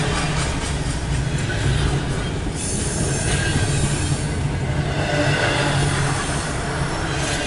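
Norfolk Southern intermodal freight train's cars rolling past, a steady rumble of steel wheels on rail, heard from inside a car beside the track.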